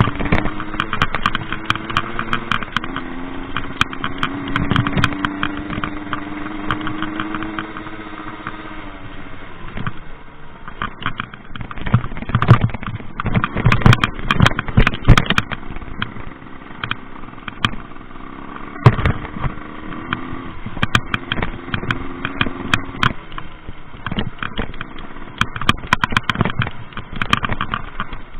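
Rieju MRT two-stroke moped engine being ridden hard off-road, its note rising and falling as the throttle opens and closes. Loud knocks and rattles come over it midway.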